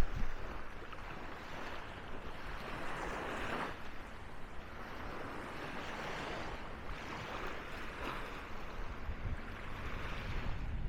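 Small sea waves washing onto a sandy beach, a steady rushing surf that swells and fades every couple of seconds.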